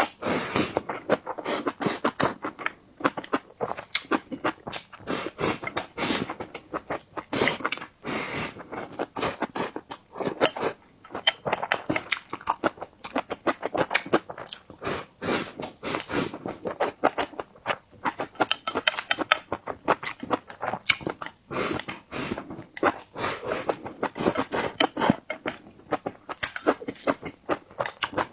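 Close-miked eating: chewing and mouth smacks, a dense irregular run of short clicks with no pauses longer than a moment.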